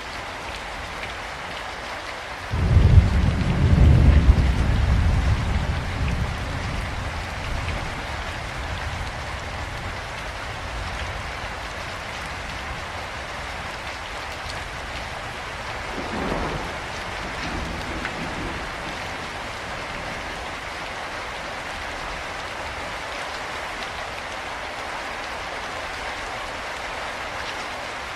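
Steady heavy rain falling, with a loud clap of thunder about two and a half seconds in that rumbles and slowly fades over several seconds, and a fainter low rumble around the middle.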